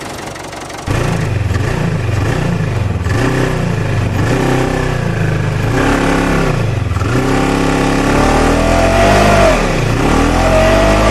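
Small engine of a DIY mini tractor revving up and down over and over; it starts abruptly about a second in.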